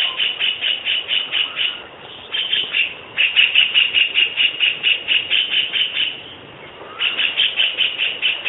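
White-throated kingfisher giving its rattling call: fast runs of sharp, high notes, about seven a second, broken by brief pauses around two, three and six seconds in.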